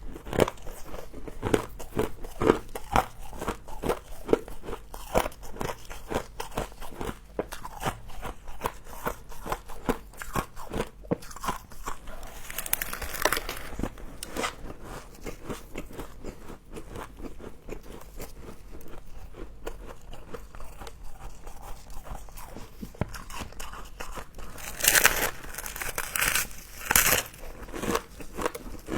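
Frost being bitten and chewed: a dense, continuous crunching made of many small crackles, with louder crunches about halfway through and again near the end.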